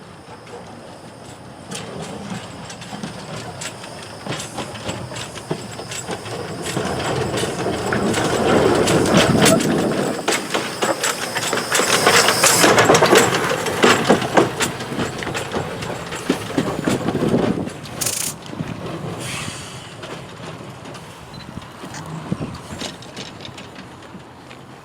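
A train passing: rumbling with many clanks and clicks that swells to a peak about halfway through and then fades, with a steady high hiss over the first half.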